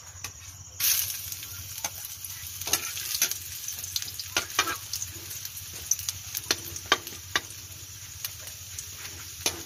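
Ginger strips frying in hot oil in a metal wok: the sizzle starts suddenly about a second in as they hit the oil, and a steel ladle clinks and scrapes against the wok as they are stirred.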